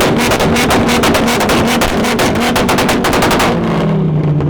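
Several car engines revved hard together, with a rapid string of sharp exhaust pops over the engine noise. The popping cuts off about three and a half seconds in, and the engines drop back with a falling tone.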